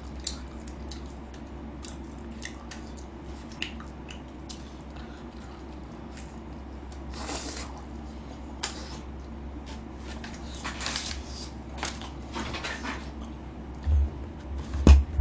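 A person chewing and biting yangnyeom (seasoned fried) chicken, with small clicks and short rustly bursts, over a steady low hum. Near the end come a few louder low thumps.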